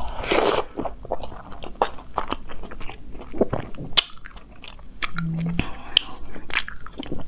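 Close-up eating sounds: a mouthful of veg fried rice mixed with Manchurian gravy being bitten into and chewed, with many short wet smacks and clicks. A brief closed-mouth 'mm' hum about five seconds in.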